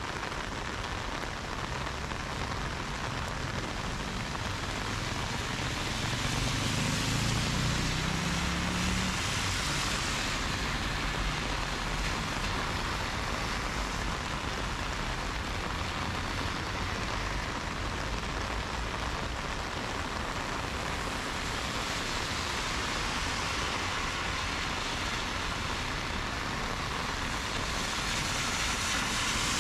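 Heavy rain pouring steadily onto a wet road, with cars passing through the standing water: tyres hiss on the wet surface, and one car's engine rises in pitch as it pulls away a few seconds in.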